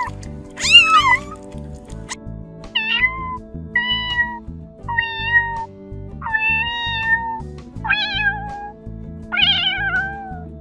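A kitten meowing seven times in high-pitched calls about a second apart. The first is the loudest and slides down in pitch; the later ones are held steadier. Soft background music plays underneath.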